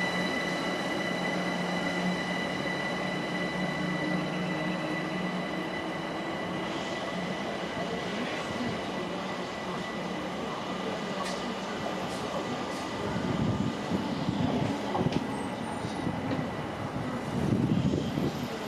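Train at a station, with a steady high whine and a low hum that fades away after about five seconds. Uneven bursts of low noise come about two-thirds through and again near the end.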